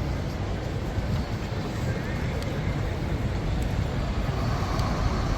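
Steady low rumble of ambient background noise.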